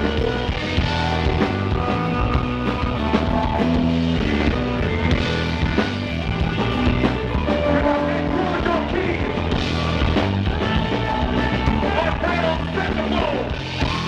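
Live band playing rock-styled music, with bass, guitar and steady drum hits throughout.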